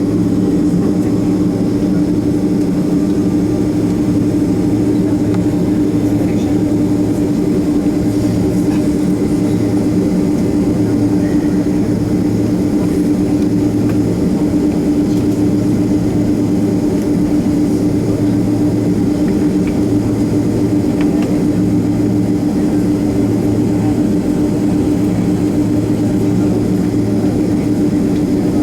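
Steady cabin drone of a Boeing 767-300 taxiing with its jet engines at idle, a constant low hum with no change in level.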